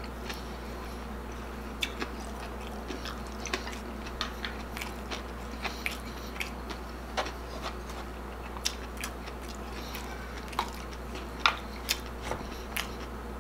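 Close-miked chewing of a mouthful of crispy chicharon bulaklak (deep-fried pork intestine) and rice: irregular sharp crunches and mouth clicks over a low steady hum.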